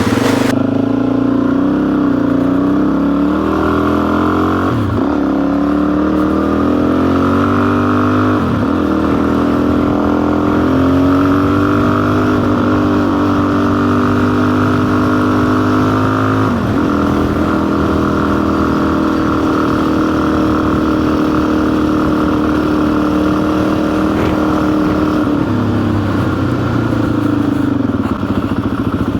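Motorcycle engine running under way, rising in pitch through each gear and dropping at the shifts about 5, 9 and 17 seconds in. It then holds a steady speed and falls in pitch near the end as the bike slows.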